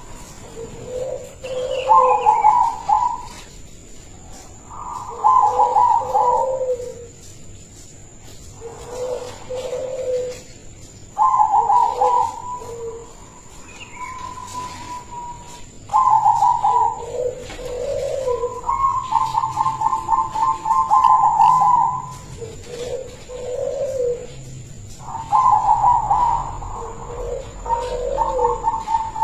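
Zebra dove (perkutut), a silver local bird, cooing: phrases of fast stuttering coos, a higher rolling part and a lower part, repeated every few seconds.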